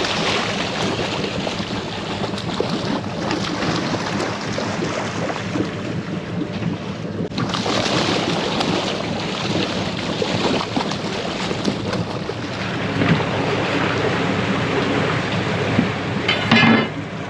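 Crab boat running on the water, its engine humming steadily under the rush of wind and water. A short, loud, pitched sound cuts in near the end.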